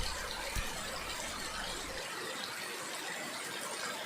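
Steady rain falling, an even hiss, with a faint low thump about half a second in.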